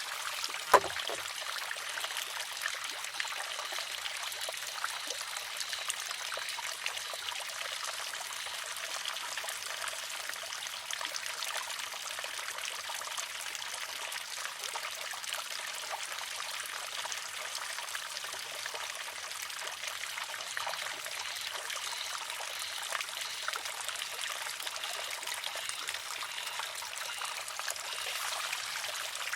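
Wooden water-driven shishi-odoshi tipping over and striking its rock with one sharp clack about a second in, then a steady trickle of running water as the arm refills.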